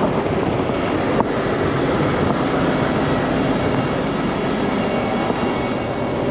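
A heavy truck engine running steadily, with one short click about a second in.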